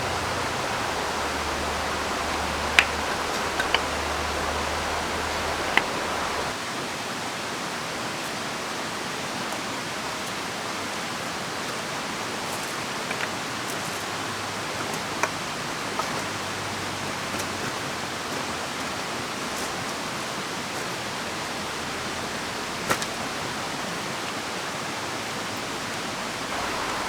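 Steady rushing of a flowing river, with rain, and a few sharp ticks now and then. A low rumble underneath stops about six seconds in.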